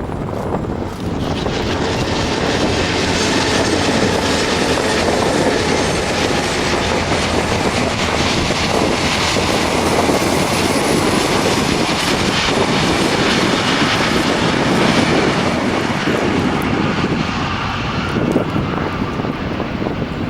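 Heritage passenger train hauled by Victorian Railways X and B class diesel locomotives running past, loud and steady, swelling about a second in and easing slightly near the end.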